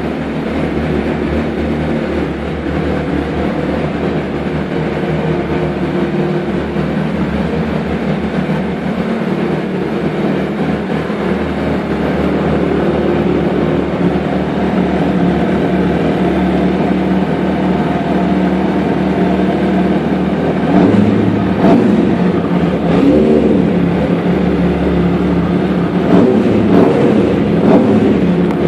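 MV Agusta sport motorcycle engine idling steadily, then blipped a few times in the last third, the revs rising and falling back to idle.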